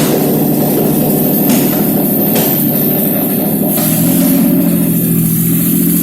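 Nissan VQ35DE 3.5-litre V6 engine running on a test stand; its note changes about four seconds in.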